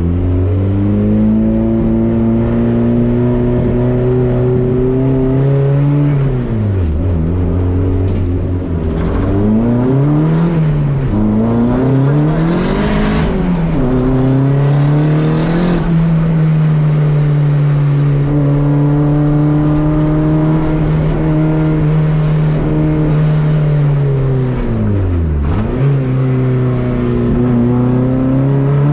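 Volkswagen race car engine on a slow warm-up lap: it holds steady revs for long stretches, and the pitch dips and climbs back several times as the driver lifts, shifts and accelerates, with one sharp drop and recovery near the end.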